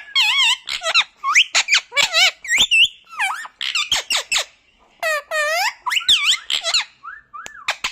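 Pet parrot giving a rapid string of high, squeaky, warbling calls and chirps that waver in pitch, with a couple of brief pauses.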